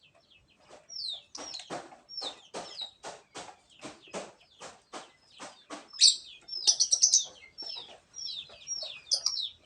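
Lovebird calling: short, high, down-slurred chirps, a run of harsh rasping notes at about three a second, then a loud, rapid burst of chirps about six seconds in.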